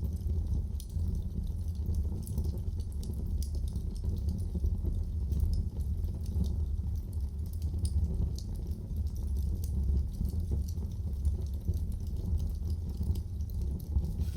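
Wood fire burning in a fireplace, with a steady low rumble of flame and frequent small irregular crackles and pops from the burning wood.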